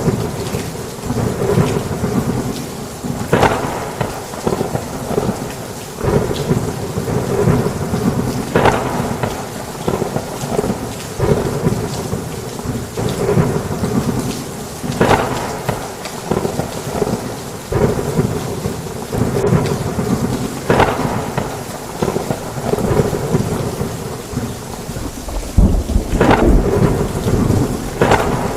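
Heavy rain pouring steadily, with repeated thunder cracks and rumbles through it; a deeper rumble of thunder rolls in near the end.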